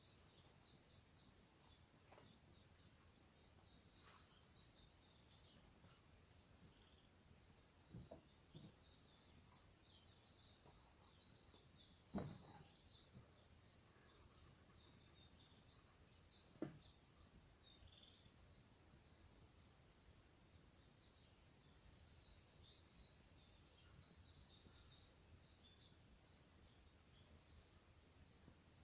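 Campfire burning quietly, with a few sharp wood pops, the loudest about twelve seconds in. Behind it, a constant faint, high chirping.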